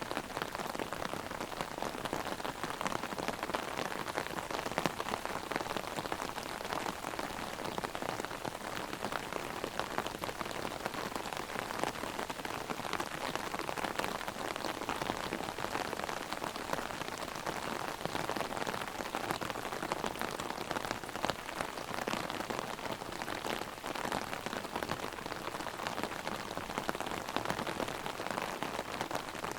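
Heavy rain drumming steadily on an open umbrella overhead, a dense patter of countless drops.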